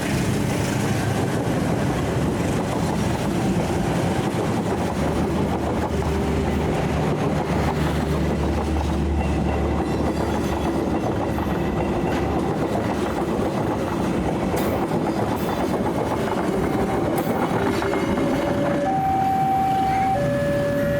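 A diesel-hauled train passing close by, with a steady rumble and wheels clacking over the rail joints. Near the end a two-tone warning sound starts, alternating between a lower and a higher note about once a second.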